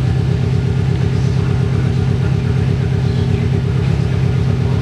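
2005 Subaru Impreza WRX's 2.0-litre turbocharged flat-four idling steadily, a subtle, not-too-loud exhaust note with an even pitch.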